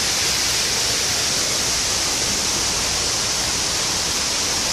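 Waterfall running: a steady rushing hiss of falling water that does not change.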